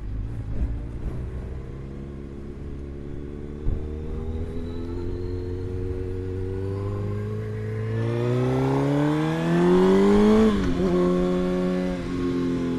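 Suzuki GSX-R1000 inline-four engine heard through a microphone inside the rider's helmet: running steadily, then revving up under acceleration for a few seconds, dropping sharply in pitch at an upshift about ten and a half seconds in, and settling into steady cruising. Low wind rumble runs underneath.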